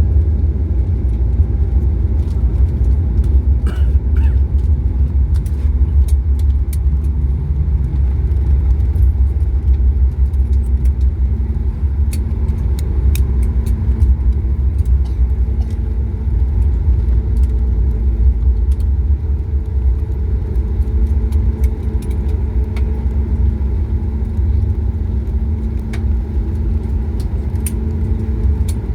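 Cabin noise of a Boeing 737 MAX-8 rolling on the ground after landing: a steady low rumble with light rattles. A faint steady hum grows stronger about ten seconds in.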